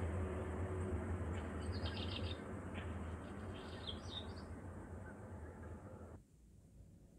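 Small birds chirping in two short flurries of quick, high calls over a steady low rumble; the rumble fades and cuts off suddenly about six seconds in.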